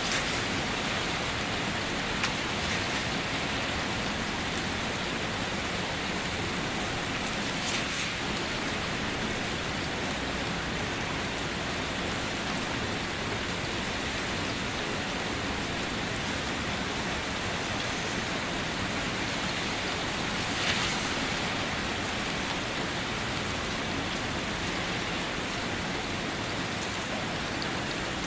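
Steady rain falling, a continuous hiss with a few louder individual drops now and then.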